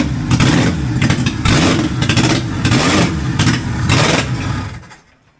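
Toyota 4Y inline-four petrol engine running on a test stand, its speed rising and falling. It winds down and stops near the end.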